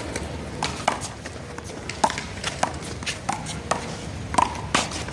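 Rubber handball being slapped by hand and smacking off the wall and pavement in one-wall handball: a run of sharp, irregular smacks, about eight in five seconds, each with a short ping.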